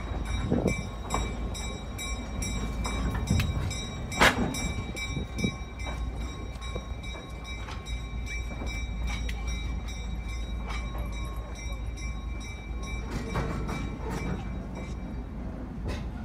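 California Western "Skunk Train" rolling slowly, heard from an open passenger car: a steady low rumble with scattered wheel clicks over the rail joints, and one sharp knock about four seconds in.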